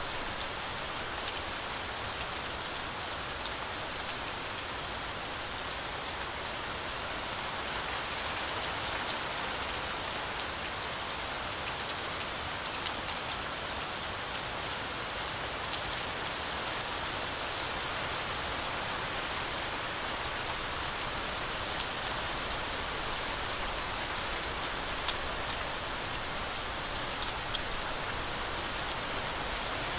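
Heavy rain falling steadily through a forest canopy: a dense, even hiss with a few brief louder ticks of single drops about halfway through and near the end.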